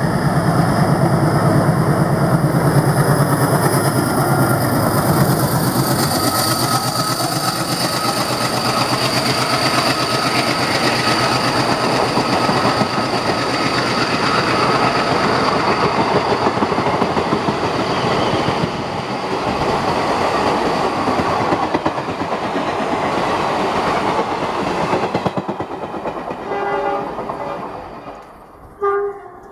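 Indian Railways diesel locomotive passing at speed with its engine throbbing, followed by the coaches of an express train rushing past with rattling, clattering wheels. Near the end a locomotive horn sounds in two short blasts.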